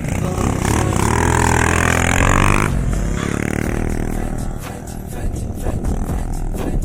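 Motocross bike engine revving, its pitch rising and falling, cutting off abruptly a little under three seconds in; after that a fainter engine note slides down in pitch.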